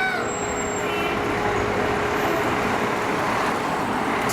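Heavy fire engine's engine and road noise, a steady rush with a faint constant hum underneath; no siren or horn sounds.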